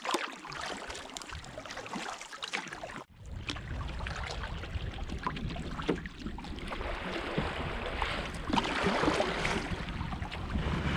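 Paddle strokes splashing and dripping in lake water as a small canoe is paddled. From about three seconds in, wind rumbles on the microphone.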